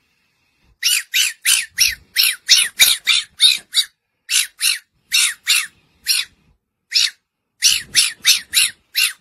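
Fennec fox giving a series of short, high-pitched yips, coming in quick runs of about four a second with brief pauses between them.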